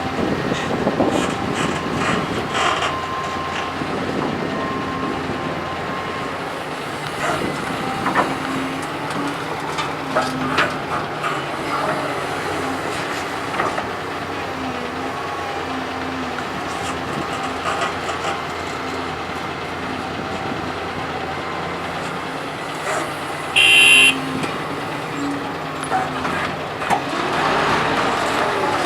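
Doosan DK225LCA hydraulic excavator working, its engine running steadily with the pitch wavering under load, with scattered knocks and clanks. A short, loud, high-pitched tone sounds once, about three-quarters of the way through.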